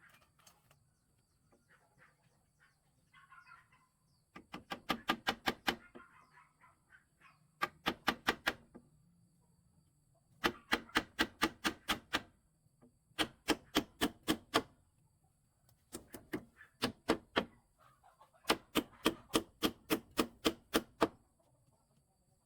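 Rapid runs of sharp knocks, a hand tool striking wood about five times a second, in six bursts of one to two and a half seconds with short pauses between.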